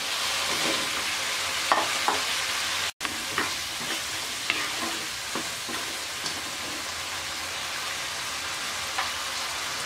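Cubed potatoes sizzling in oil and spiced onion masala in a karai, stirred with a wooden spatula that scrapes and knocks lightly against the pan. The sizzle breaks off for an instant about three seconds in, then runs on a little quieter.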